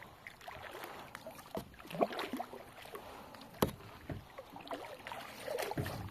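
A kayak being worked through a tight, shallow stretch of river: irregular paddle splashes and water sloshing, with scattered knocks against the boat. The sharpest knock comes about three and a half seconds in.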